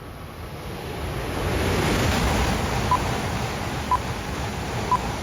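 Tohoku Shinkansen Hayabusa train passing at speed: a rushing roar of air and wheels that swells over the first two seconds and holds. Three short beeps sound a second apart over it in the second half.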